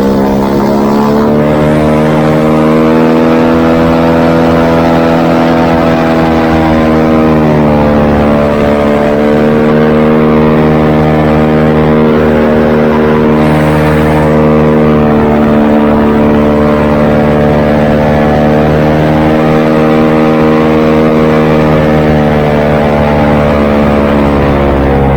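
Airboat's engine and air propeller running loud and steady at cruising speed, its pitch sagging and settling back a couple of times.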